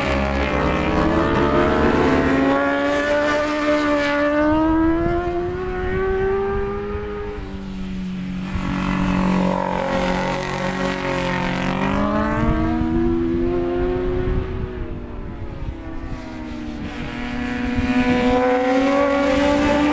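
Racing motorcycle engines at high revs on a circuit, the pitch climbing in steps as they change up through the gears, falling away about eight seconds in, then climbing again twice. A low rumbling, buffeting noise sits underneath.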